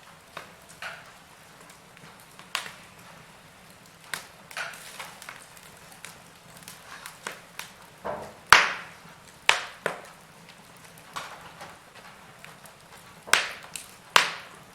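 Wood fire in a fireplace crackling: irregular sharp pops and snaps over a faint steady background, the loudest pops about halfway through and near the end.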